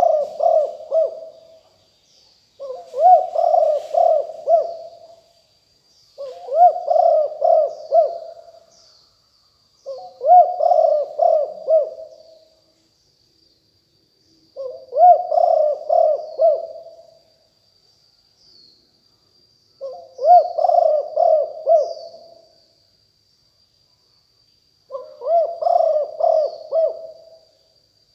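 Spotted dove cooing: a phrase of several rolling coos, about two seconds long, repeated seven times, every four to five seconds. Faint high chirps of small birds and a faint steady high tone sound behind it.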